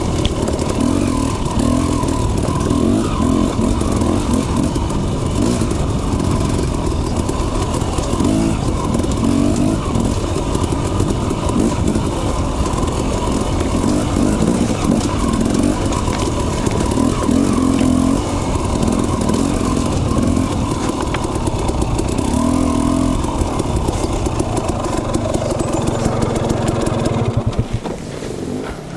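Dirt bike engine running as the bike is ridden along a trail, the revs rising and falling every second or two, with wind noise on the microphone. It eases off near the end.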